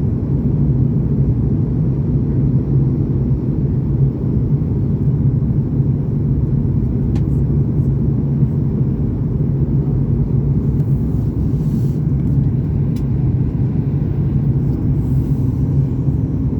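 Steady low rumble of engine and airflow noise inside the cabin of a Boeing 737 MAX 8 in flight on approach, with a constant low drone from its CFM LEAP-1B engines and a few faint ticks.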